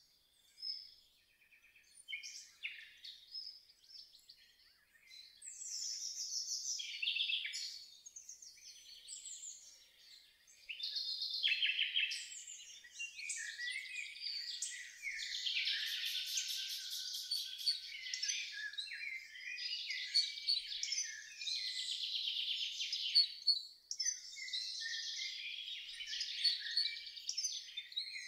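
Songbirds singing and chirping, several overlapping: scattered calls at first, then a denser chorus from about eleven seconds in.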